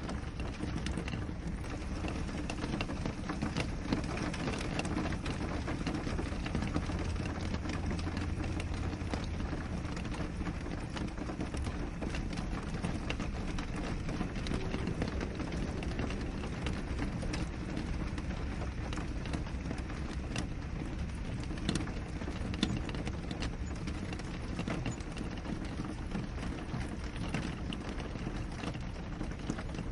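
Steady rain on a window pane: a constant hiss of rainfall with many small drops tapping sharply on the glass.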